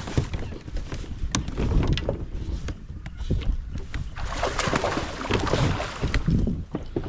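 A kayak on open water: an uneven rush of water and wind noise with low buffeting and scattered small knocks and clicks, turning brighter and hissier about halfway through.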